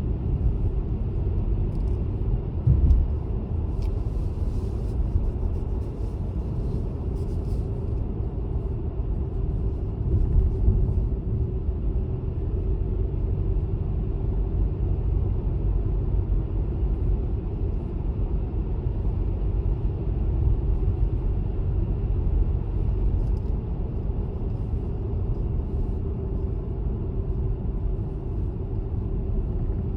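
Car driving: steady low rumble of engine and tyres on the road, with a brief thump about three seconds in.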